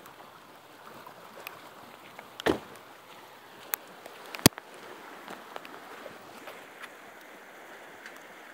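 Floodwater rushing in a swollen river, a steady wash of water noise. A few sharp clicks and knocks sound over it, the loudest about two and a half and four and a half seconds in.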